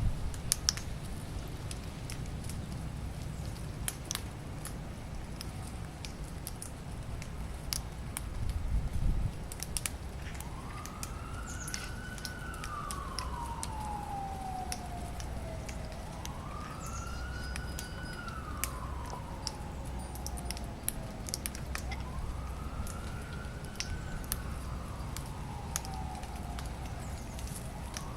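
A siren wailing, its pitch rising quickly and then falling slowly, over and over about every six seconds, starting about ten seconds in. Under it runs a steady low rumble with scattered sharp clicks.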